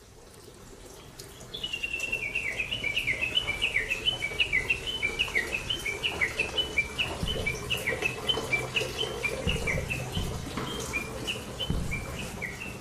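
A bird chirping in a quick, unbroken run of short, falling notes, several a second, over a low rumble. The sound fades in at the start.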